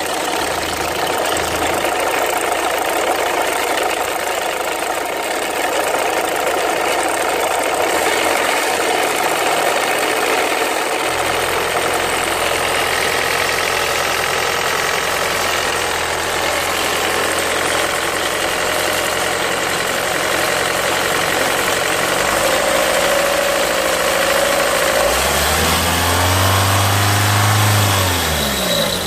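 Renault Mégane II 1.5 dCi diesel engine running with a bird-like chirping noise, which the owner suspects means the timing belt needs replacing. Near the end the engine is revved once, rising and falling back over a few seconds.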